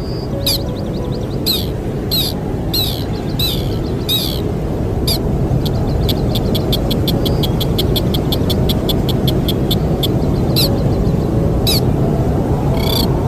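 Bird the uploader calls a sintar, giving short, sharply falling calls about once or twice a second, breaking into a fast, even trill of rapid notes midway before the single calls return. A steady low rush of wind runs underneath.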